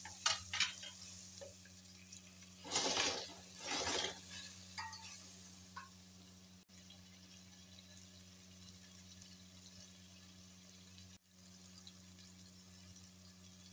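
A spatula scraping and stirring onions and tomatoes in a stainless steel pot, with a few quick scrapes at the start and two longer ones around three and four seconds in. Onion and tomato frying in oil sizzle softly and steadily underneath.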